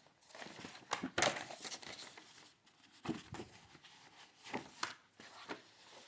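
Paper rustling and crinkling in several short bursts, a book page being handled.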